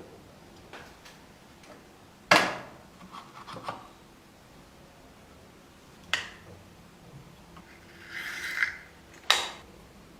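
Hand work on a carved wooden piece: three sharp knocks, about two seconds in, six seconds in and near the end, with a few lighter taps and a short scraping rub just before the last knock.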